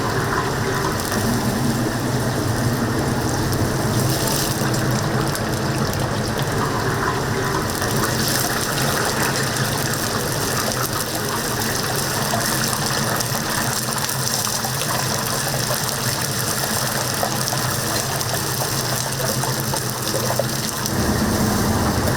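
Whole chickens deep-frying in a cauldron of hot oil: a steady, dense sizzle, with a low hum underneath that grows louder about 21 seconds in.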